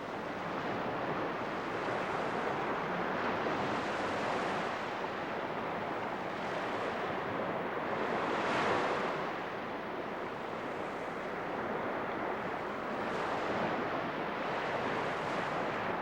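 Ocean surf breaking and washing on a shore, the noise swelling and easing every few seconds, with the biggest surge about nine seconds in.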